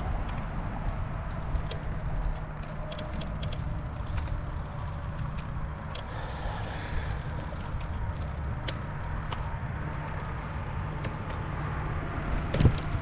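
Bicycle ride noise: a steady low rumble of wind and rolling on the microphone, with scattered light clicks and rattles and a sharper knock near the end.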